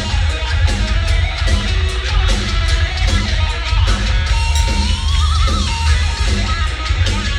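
Heavy metal band playing live: distorted electric guitars over a steady, driving drum beat, with a wavering, bending high note about five seconds in.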